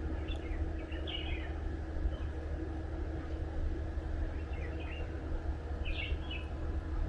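Small birds chirping in short bursts, four times, over a steady low rumble.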